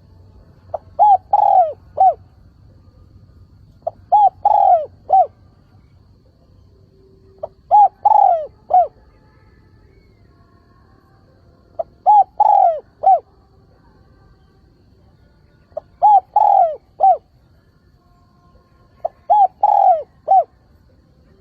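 Spotted dove cooing its calling song: six short phrases of several falling coos, one about every four seconds.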